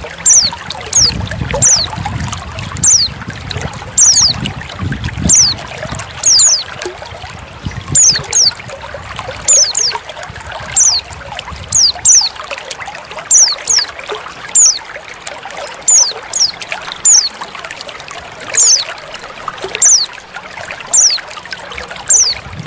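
Female white-eye (pleci) calling: short, high notes that slide downward, often in quick pairs, repeated about once a second over steadily trickling water.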